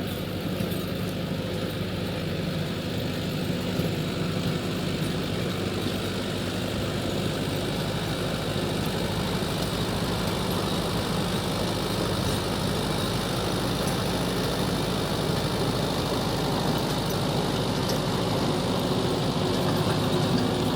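Tractor engine running steadily as the tractor drives, the sound slowly growing a little louder.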